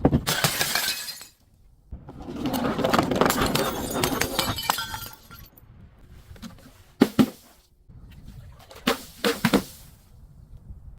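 Glass breaking: a shattering crash, then a few seconds of glass crunching and splintering. About halfway through come a single sharp crack and then three quick cracks close together.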